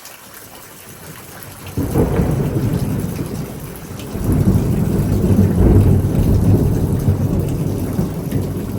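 A close thunderclap breaks about two seconds in over steady heavy rain, then rolls on as a long, low rumble that swells again around four seconds and slowly fades.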